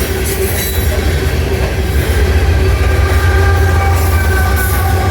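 A train rolling past close by, its wheels making a steady low rumble. Thin, high squealing tones from the wheels join in about halfway through.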